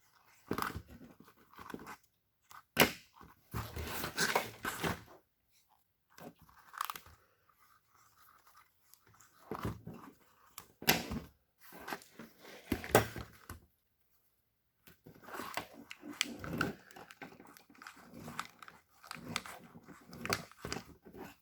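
Plastic split loom and a wiring harness being handled and wrapped by hand: intermittent crinkling and tearing noises with a few sharp clicks.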